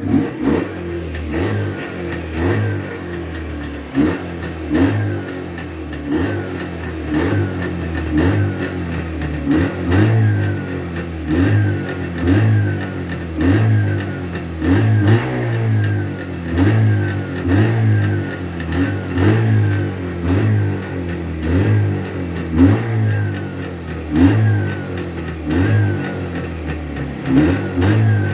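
Jawa 634 motorcycle's two-stroke twin engine running, its revs rising and falling about once a second as the throttle is blipped. The engine has been rebuilt with Almet pistons at the fourth oversize, and the owner calls its piston operation ideally quiet.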